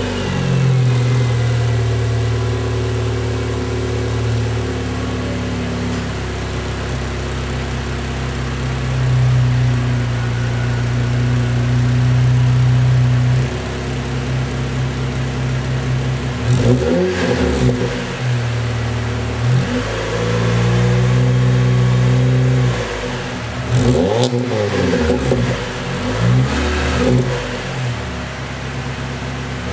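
Chrysler PT Cruiser's four-cylinder engine through a dual exhaust, idling steadily, then revved. The revs come as a few quick blips and one held for about two seconds, each falling back to idle.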